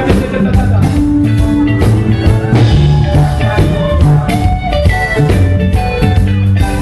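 Live rock band playing an instrumental passage between sung lines, with a steady drum beat under sustained pitched instruments.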